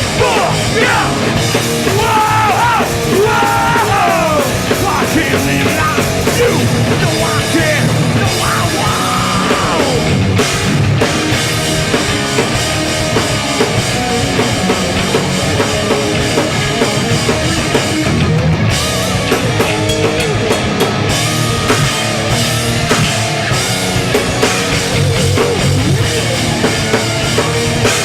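Hardcore punk band playing live: distorted electric guitars, bass and drum kit, loud and dense.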